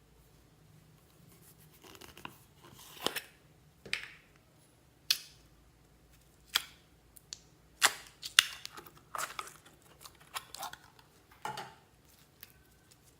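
Slime being handled, with about a dozen irregular sharp pops and crackles.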